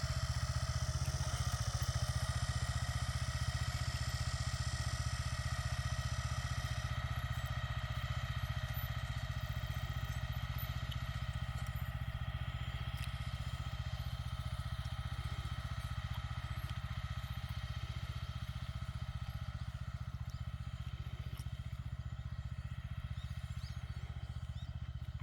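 Farm machine's engine running steadily while laying plastic mulch film on potato beds, getting a little quieter over time.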